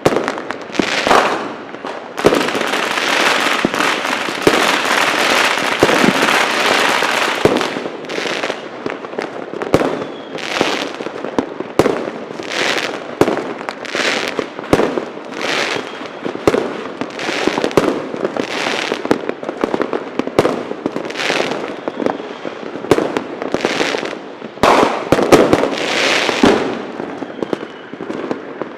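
Fireworks and firecrackers exploding. A dense, unbroken crackle runs for several seconds, then gives way to separate loud bangs about once a second, the loudest near the end.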